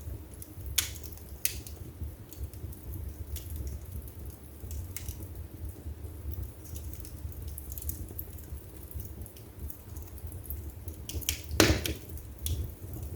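Wood fire burning in a fireplace: scattered sharp crackles and pops over a low steady rumble of flames, with one louder pop near the end.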